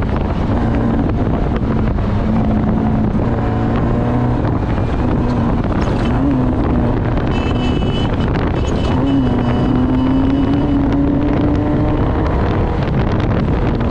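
Off-road race vehicle's engine running hard at speed, its pitch wavering and climbing slowly in the second half, with wind buffeting the microphone.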